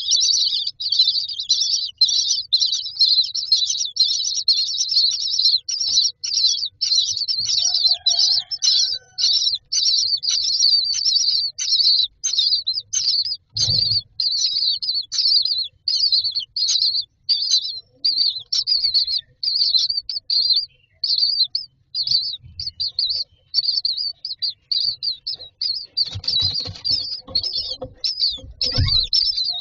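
Common myna nestlings begging inside a nest box, a continuous run of short high-pitched calls several times a second. Low knocks and rustling in the box come about halfway through and again near the end.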